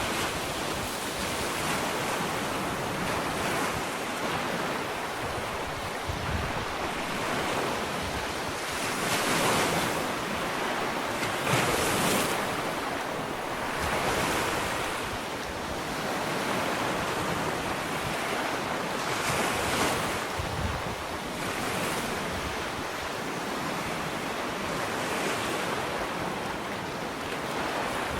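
Ocean waves breaking and washing up a sandy beach, a continuous surf wash that swells with each wave every few seconds, with some wind on the microphone.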